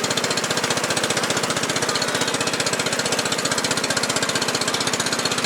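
A motor engine running steadily, with a fast, even pulsing beat that holds at one level throughout.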